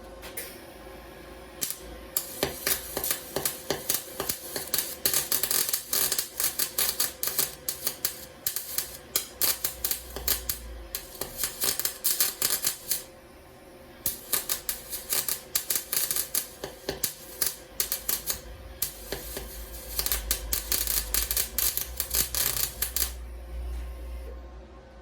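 Wire-feed (MIG/MAG) welder arc crackling and spitting in three long runs, with two short pauses between them.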